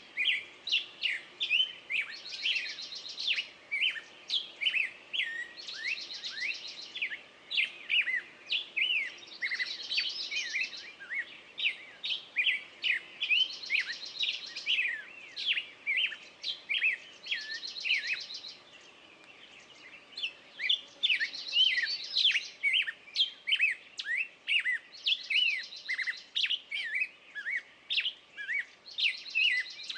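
Several songbirds singing and chirping: a short trilled song phrase repeats about every three to four seconds over a steady run of rapid chirps, with a brief lull about two-thirds of the way in.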